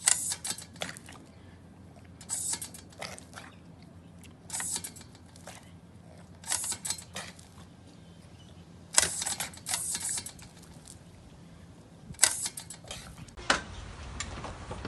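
Clusters of crisp clicks and crackles, one cluster about every two seconds, with a faint low hum in the gaps.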